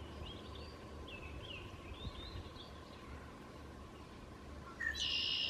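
Songbirds chirping faintly over a quiet outdoor background, with a louder high-pitched sound lasting under a second near the end.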